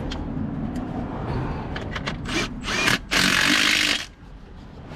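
A hand-held power tool run in a few short bursts, then one burst of about a second that stops suddenly, over a steady low rumble.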